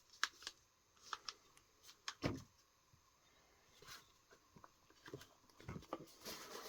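Faint handling noises of boxed fireworks and their packaging: a few light clicks and taps, a soft knock a couple of seconds in, and rustling near the end.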